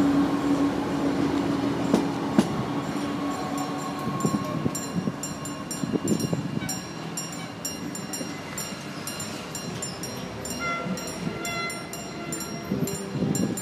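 Commuter train running past at close range with a steady low engine note and rail rumble. After a cut, quieter running noise from a Stadler railcar pulling away from a level crossing.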